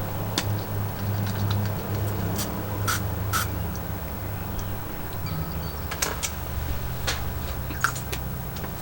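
A handful of short, sharp clicks from a pump-spray candy bottle being handled and pumped, spread unevenly over a few seconds, over a steady low hum.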